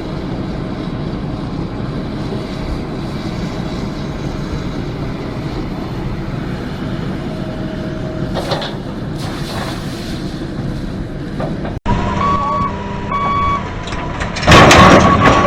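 Steady low rumble of a running motor vehicle. It breaks off abruptly about twelve seconds in, followed by a series of short electronic beeps and a loud burst of noise near the end.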